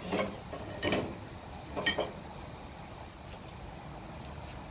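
Raw peanuts and sliced garlic frying in a wok of oil, a steady sizzle and bubbling, with three brief louder sounds in the first two seconds.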